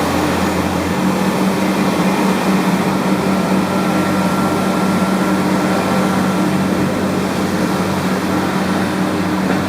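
Steady hum and rushing of a cruise ship's machinery and ventilation under way, with a faint steady whine joining about three seconds in.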